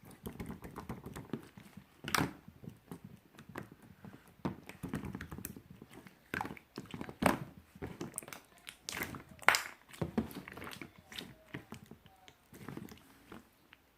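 Clear, bouncy slime being squeezed and pressed by hand, making irregular sticky clicks, pops and squelches.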